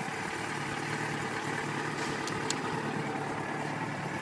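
Yamaha FZ6's inline-four engine idling steadily, with a couple of short light clicks a little past the middle.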